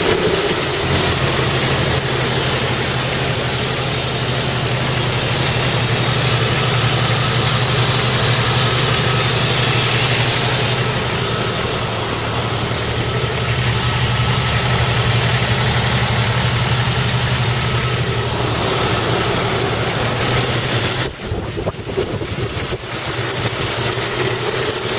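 Jeep Cherokee XJ's 4.0-litre straight-six idling steadily. It runs loud and a bit tappety, which the owner suspects is a leaking exhaust manifold.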